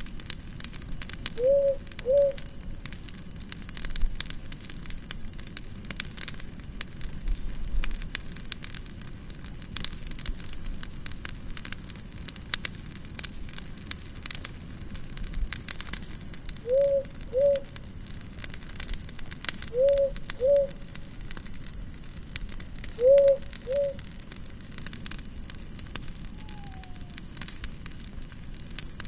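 Wood fire crackling, with frequent sharp pops throughout. A low two-note call sounds four times, and a quick run of high chirps comes near the middle.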